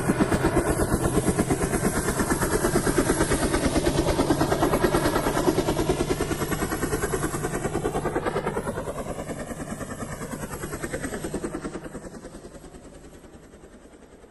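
Helicopter sound effect: a fast, even rotor chop that comes on loud, shifts in pitch as it passes, then fades away over the last few seconds.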